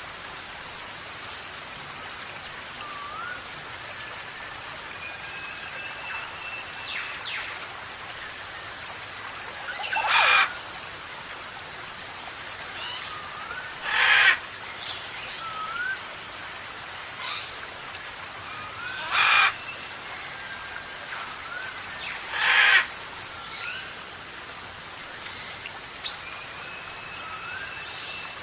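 Parrots calling: many short rising whistles and chirps, and four loud, harsh squawks spaced a few seconds apart, over a steady hiss of rain.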